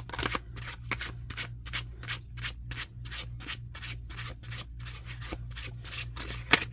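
A deck of tarot cards being shuffled by hand, the cards sliding against each other in an even run of short swishes, about four a second.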